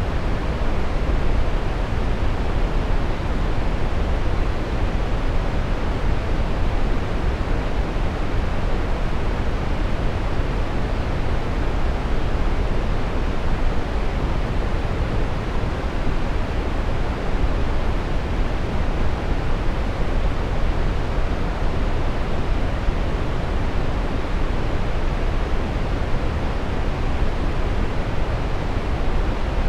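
Steady brown noise: an even, unchanging rush of noise weighted toward the low end, deep and rumbling with little treble.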